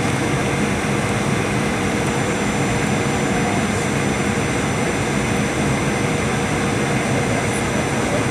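Steady cabin noise of a Boeing 737-800 in flight, heard from inside the cabin: a constant rush of airflow and drone from its CFM56 turbofans, with a few faint steady whining tones.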